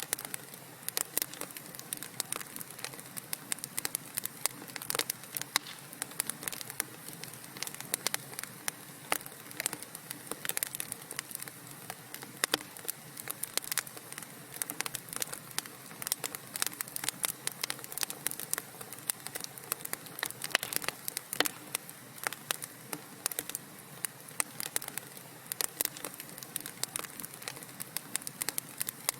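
Wood fire crackling in a fireplace: dense, irregular pops and snaps over a steady soft hiss of burning.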